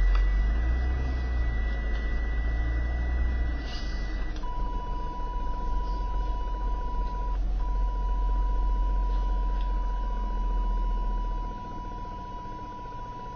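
Radio-frequency interference heard through a CB radio's speaker on channel 29: a steady electronic tone over hiss and a low hum. The tone drops to a lower pitch about four seconds in and breaks off briefly a few seconds later. The uploader traced the noise to a neighbour's house and matched it to the interference given off by plant grow lights.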